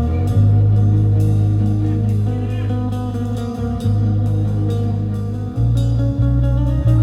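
Live rock band playing: electric guitar over a held bass line and drum kit with steady cymbal hits.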